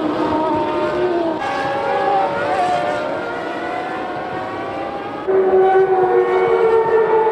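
1996 Formula One car engines running at high revs, several pitches gliding up and down as cars accelerate and pass. About five seconds in the sound jumps suddenly louder to one steady, close engine note.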